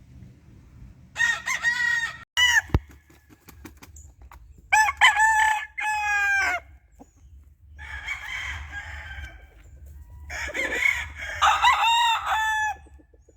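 Gamefowl roosters crowing in turn: about four long crows, several seconds apart.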